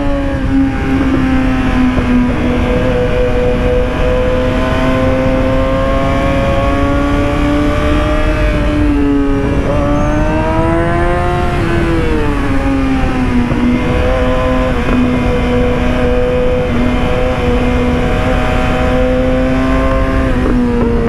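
Yamaha YZF-R6's inline-four engine running under way at high revs. Its pitch mostly holds steady, dips and rises again about ten seconds in, and drops near the end, with wind rushing over the microphone.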